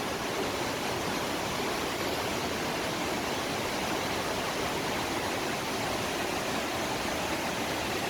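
Large mountain waterfall falling into a lake: a steady, even rush of water.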